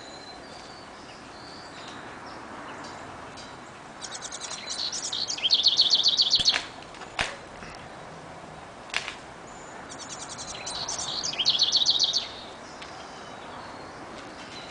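A songbird singing twice, each song a rapid trill of repeated high notes lasting about two seconds. A few sharp clicks fall between the two songs.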